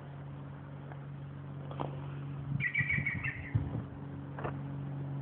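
A bird's short burst of rapid chirps about two and a half seconds in, over a steady low hum, with a few knocks and scuffs scattered through the middle.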